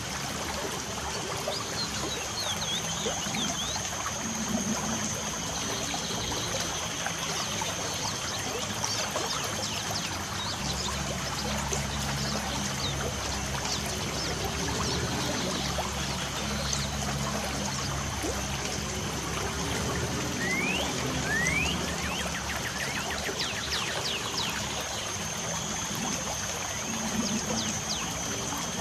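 Light rain falling with water trickling, in an even steady hiss. Birds chirp now and then over it, with a few short rising calls about twenty seconds in, and a thin steady high tone runs along.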